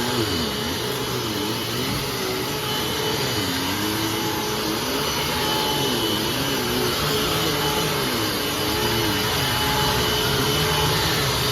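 A 2005 Hoover Fold Away TurboPOWER 3100 upright vacuum cleaner running steadily with a motor whine. Lower tones in its sound waver up and down in pitch about once a second. Its owner says the motor needs replacing.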